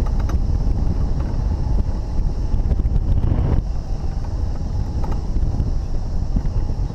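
Rushing air buffeting the microphone, a loud low rumble with a hiss above it; the hiss drops away about three and a half seconds in.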